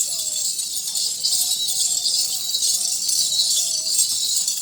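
Many small bells on walking Nachi goats jingling continuously, a dense high shimmer without pause.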